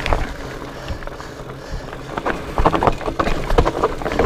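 Specialized Fatboy fat bike rattling over a rocky trail at speed: irregular knocks and clatter from the frame and drivetrain, with wind rushing over the microphone. The knocks come thicker from about halfway through.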